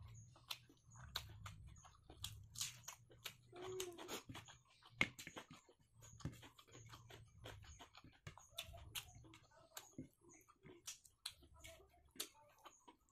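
Close-miked chewing of rice and pork: many sharp wet mouth clicks and smacks over soft, low chewing pulses about once a second.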